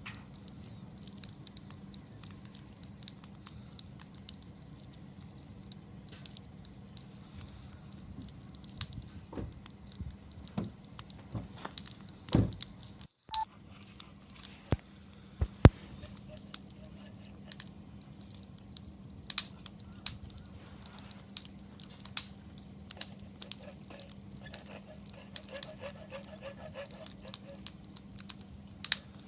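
Wood fire crackling, with irregular sharp pops and snaps of burning wood, a few louder ones in the middle, over a faint steady low hum.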